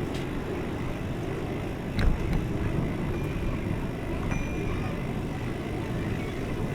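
Steady low rumble of wind and road noise while riding a bicycle, with a sharp knock about two seconds in.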